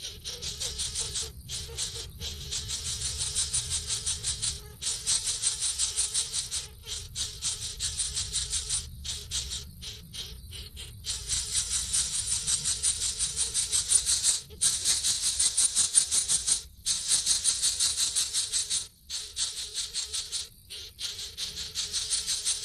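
Nestling birds begging: a fast, rattling high-pitched chorus of chirps in runs broken by brief pauses.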